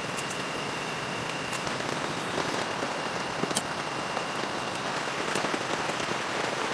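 Steady rain falling, with scattered sharp ticks of individual drops landing.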